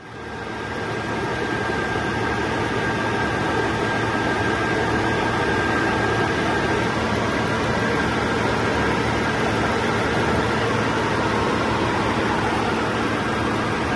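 Volvo B6324S4 3.2-litre inline-six petrol engine idling steadily, fading in over the first second or so, with a steady high whine over the running.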